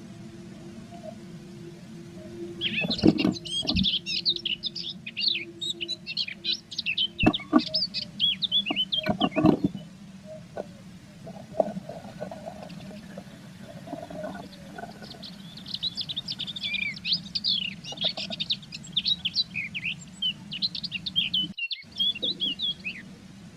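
Blue tits twittering in fast chattering runs of high notes, in two long spells, over a steady low hum. A few dull knocks sound during the first spell. The audio is played back 1.3 times fast, which raises the pitch.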